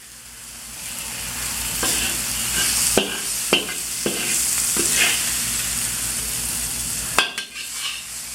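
Food sizzling in a hot wok, the hiss building over the first second, while a metal spatula knocks and scrapes against the wok several times, once more sharply near the end.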